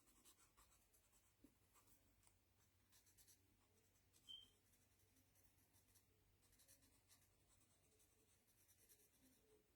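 Very faint scratching of a marker tip stroking over cardstock, in light, scattered strokes.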